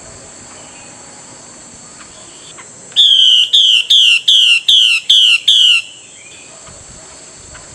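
Chinese hwamei giving a run of seven loud, clear whistled notes, each sliding down in pitch, about two and a half per second, starting about three seconds in and lasting about three seconds, over a steady faint high hiss.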